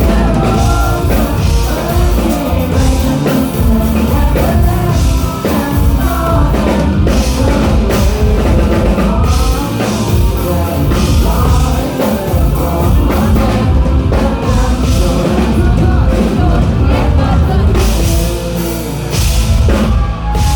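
Live rock band performing, with a sung vocal over drum kit and guitars, loud and unbroken, dipping briefly near the end.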